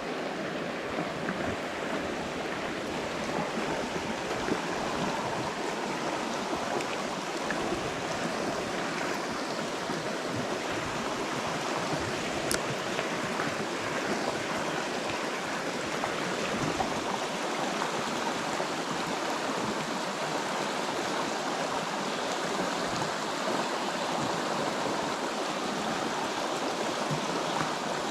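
Stream water flowing with a steady rushing sound.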